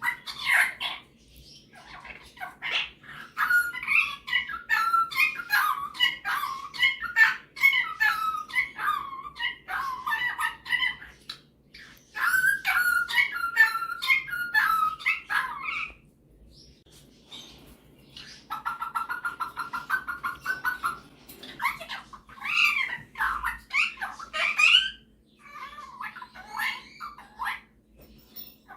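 Superb parrot (Barraband parakeet) chattering and warbling in a long run of varied chirps and whistles, with short pauses, and a fast, even trill lasting about two seconds past the middle.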